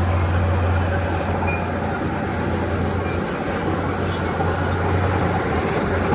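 Heavy diesel earthmoving machinery running steadily, a low engine drone with scattered short high squeaks and clinks over it.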